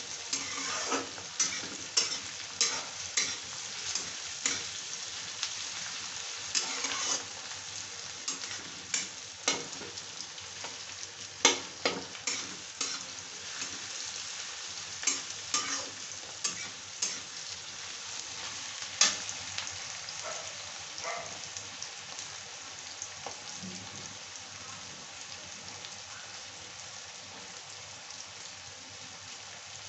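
Chopped onion, garlic, tomato and green chilli sizzling in hot oil in a metal kadai, stirred with a flat steel spatula that scrapes and taps against the pan. The scrapes and taps thin out after about twenty seconds, leaving the steady sizzle of the frying.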